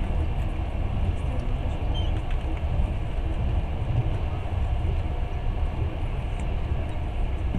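Long-distance passenger train running at speed: a steady low rumble of the carriage and its wheels on the rails.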